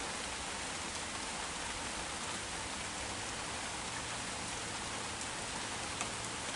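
Heavy rain shower falling steadily: an even hiss of rain with a few individual drops ticking out above it.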